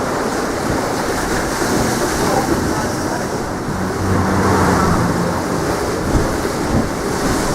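Strong wind buffeting the microphone, with sea surf. A low hum joins in briefly about four seconds in.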